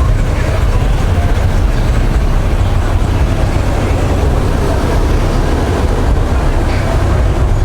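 A steady, loud low rumble with no clear pitch, like vehicles running close by.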